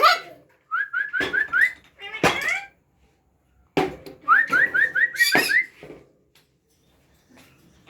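Two runs of quick, rising whistle notes, about five or six in a row each, with a few short, harsh noises between and after them.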